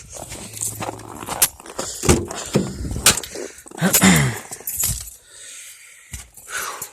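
Car keys jangling, with a series of sharp clicks and knocks as the car is being got into for a cold start.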